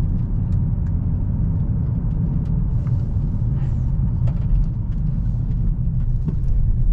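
Steady low rumble of a 2022 Dodge Challenger Hellcat's 6.2-litre supercharged V8 and its tyres while the car is driven at moderate speed, heard from inside the cabin. The engine is still in its break-in period.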